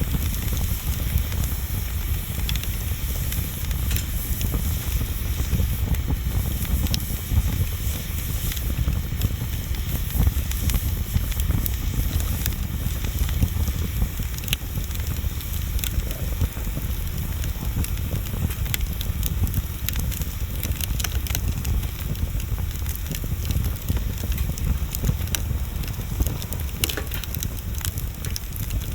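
Wood bonfire burning, with frequent small sharp crackles and pops over a steady low rumble.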